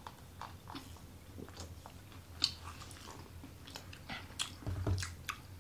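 Mouth sounds of people eating toasted sandwiches: biting and chewing with wet clicks and small crunches. The sharpest bite comes about two and a half seconds in, and a run of bites follows near the end.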